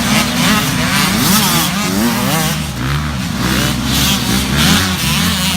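Several small youth motocross dirt bikes racing, their engines revving up and down over one another.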